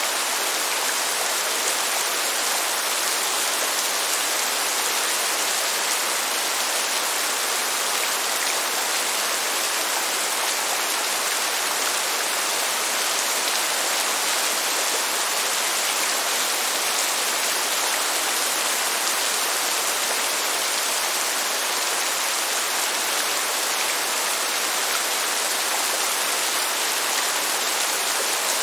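Steady rain falling, an even hiss that holds the same level throughout, with no thunder.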